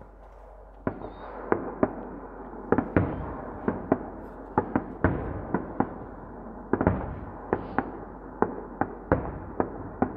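Aerial fireworks shells bursting in a rapid series of sharp bangs, about twenty in ten seconds, starting about a second in. Each bang trails off in a rolling echo.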